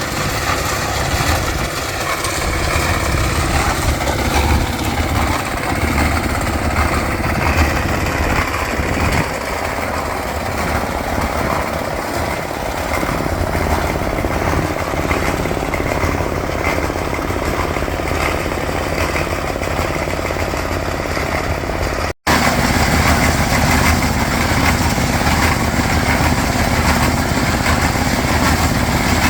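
Small petrol engine of concrete-pouring equipment running steadily at a constant speed. It cuts out abruptly about 22 seconds in and comes straight back.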